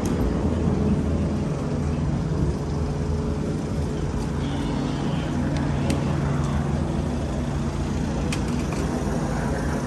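Car engines running steadily at low revs, with street traffic sound and a few faint ticks.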